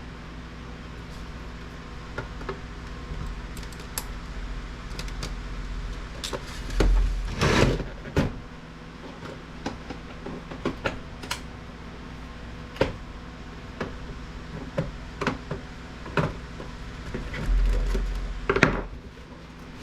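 Clicks, knocks and clatter of a Dell monitor being taken apart by hand, with heavier bouts of handling about seven seconds in and again near the end, over a low steady hum.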